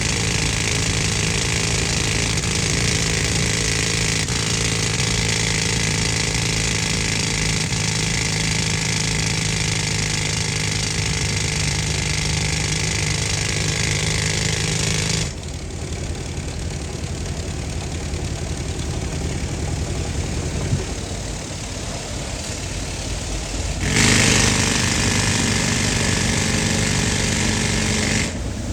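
Pneumatic rock drill hammering steadily, driven by compressed air from an old air compressor. About halfway through the sound drops to a quieter, lower running for several seconds, then loud drilling resumes near the end.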